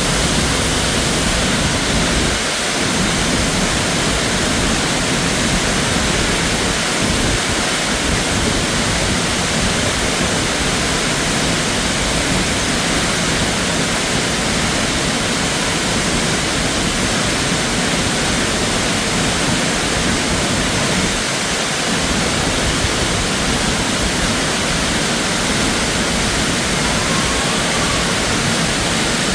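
Noccalula Falls, a 90-foot waterfall running high after heavy rain, heard close by as a loud, steady rush of falling water.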